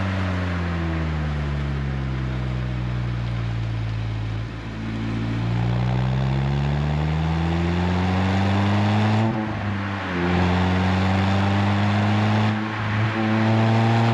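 Renault Twingo RS Gordini's 1.6-litre four-cylinder engine through an Inoxcar 80 mm stainless aftermarket exhaust, on the road: revs falling off for a few seconds, then climbing under acceleration. Two quick upshifts follow, one past the middle and one near the end, each a brief dip then the pitch rising again.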